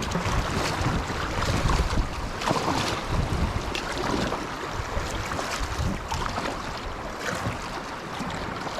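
A stream running and splashing, with wind buffeting the microphone in low, uneven gusts.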